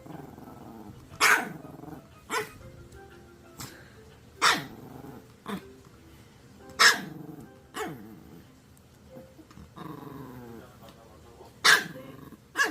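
Maltese dog barking: about eight sharp single barks, one to two seconds apart, with quieter growling in between.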